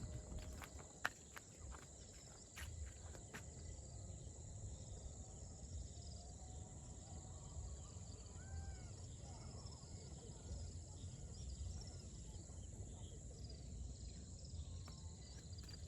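Steady high-pitched insect chorus, the drone of crickets or cicadas, over a low rumbling outdoor ambience. A few sharp clicks come in the first few seconds, and some faint short calls near the middle.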